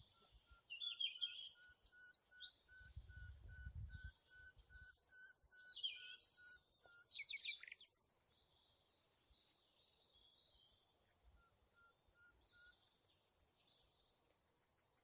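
A woodpecker tapping in the distance: a slow, even series of faint knocks, about two or three a second, that stops after about seven seconds and comes back briefly near the end. Small birds chirp over it with quick falling calls.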